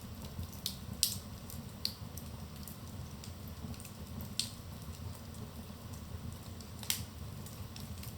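Wood fire crackling in a fireplace: scattered sharp pops and snaps, the loudest about a second in and near seven seconds, over a steady low rumble of the burning fire.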